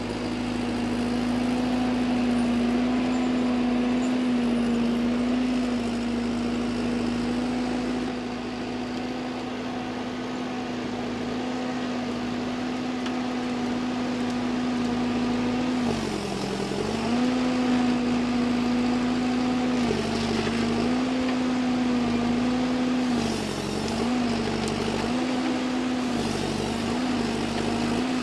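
Forestry harvester's diesel engine running at steady high revs. Its pitch dips briefly about five times in the second half as the load comes on it, typical of the hydraulics working the harvesting head.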